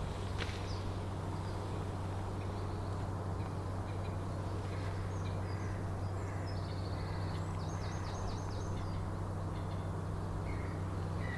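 Birds calling, with a quick run of repeated high notes past the middle, over a steady low hum.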